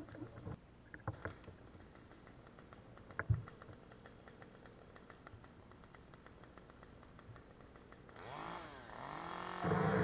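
Mostly quiet, with faint scattered clicks and a single knock about three seconds in. Near the end a Stihl MS 193 T two-stroke top-handle chainsaw comes in, its pitch rising and falling, then settles into a steady run.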